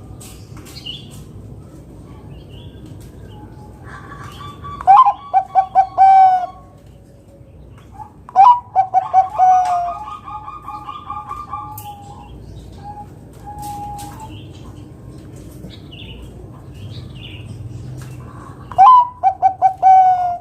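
Zebra dove (Bangkok-type perkutut) singing its cooing song three times, each a quick string of short, loud staccato coo notes with a falling final note.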